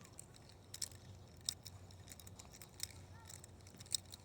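Faint footsteps while walking on a path: light, sharp clicks from each step, about one a second and unevenly spaced, over a quiet outdoor background.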